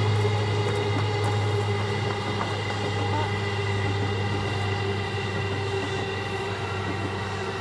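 Electric express train running with a steady hum of several held tones that eases off slightly over the few seconds.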